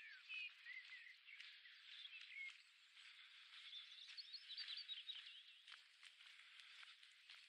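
Faint woodland birdsong: several small birds chirping and warbling in short quick phrases, with a busy flurry of high notes about four seconds in.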